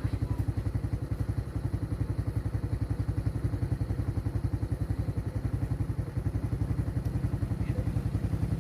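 Motorcycle engine running at a steady low speed, a fast even putter of about eleven beats a second.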